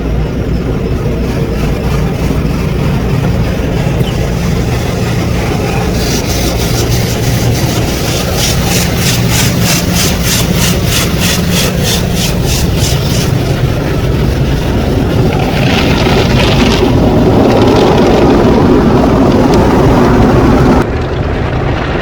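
Automated car wash running, heard from inside the car: a steady loud rumble of the machinery and water. For several seconds midway there is a fast hissing pulse of water jets, about three a second, and near the end a louder rush that cuts off suddenly.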